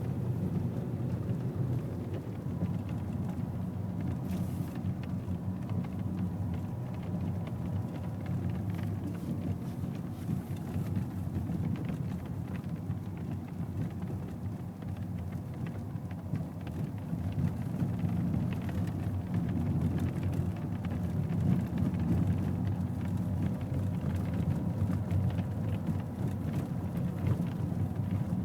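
Cabin noise inside a moving BMW E90: a steady low road and engine rumble, with a faint thin steady tone above it.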